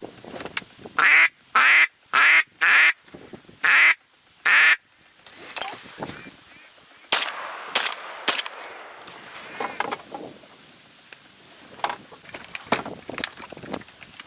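Six loud, harsh duck quacks in quick succession, each falling in pitch, followed by scattered light clicks and knocks.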